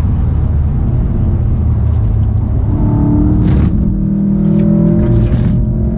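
Golf VII GTI Performance's turbocharged 2.0-litre four-cylinder engine and road noise heard from inside the cabin on track. There is a dense rumble at first, then about three seconds in the engine settles into a steadier note with clear tones as the car slows for a corner.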